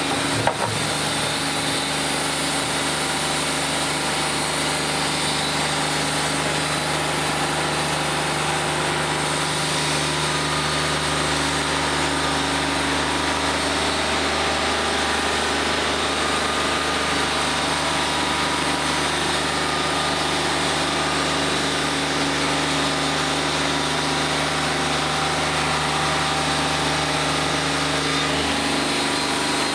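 Wood-Mizer LT40Wide sawmill's engine running steadily at one constant speed, with a single sharp click about half a second in.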